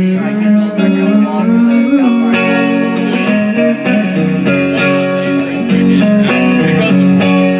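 Guitar playing a song's accompaniment between sung lines, sustained notes changing chord every second or so.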